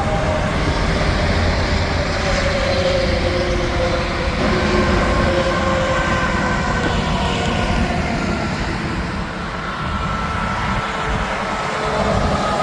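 Heavy highway traffic with semi trucks passing: a steady roar of tyres and engines with faint tones that slowly fall in pitch as vehicles go by.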